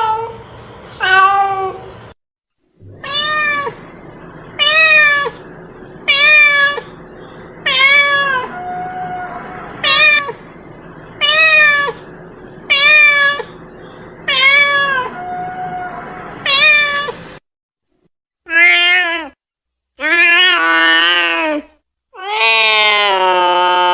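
Domestic cat meowing over and over, one call about every second and a half. Near the end come three longer, louder meows, the last one drawn out.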